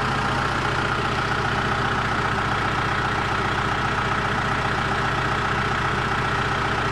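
John Deere 210LE loader's diesel engine running at a steady idle, its note unchanging, with a constant high whine over it.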